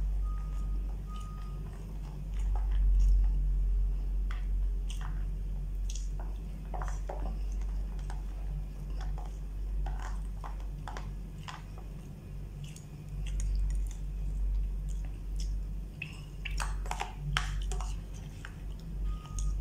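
A person chewing and smacking while eating, with scattered small clicks and smacks at irregular intervals over a steady low hum.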